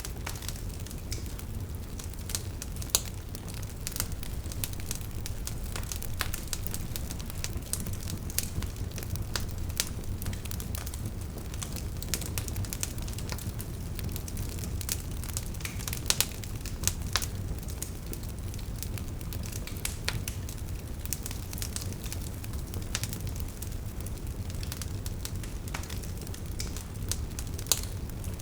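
Wood fire burning: burning logs crackle with a dense run of small pops over a steady low rumble of flame, and a few louder snaps stand out, about three seconds in, twice around sixteen to seventeen seconds, and near the end.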